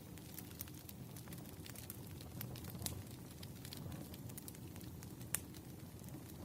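Wood fire burning, with irregular crackles and sharp pops over a low steady rumble; one louder pop comes a little past five seconds in.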